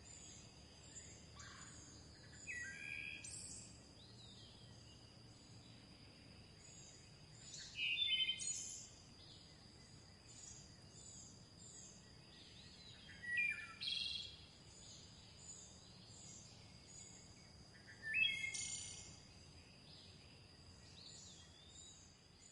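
Several songbirds singing: a continuous backdrop of short, high chirps, with one bird giving a louder song phrase about every five seconds, four times in all, over a steady high-pitched tone.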